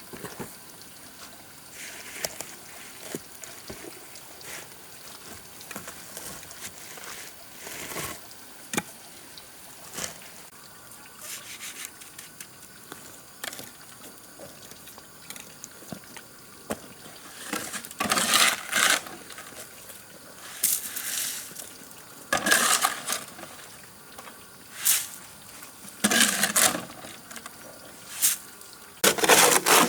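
Stones knocking and scraping against each other in scattered sharp knocks, with louder, rougher clusters of grinding and clattering in the last third.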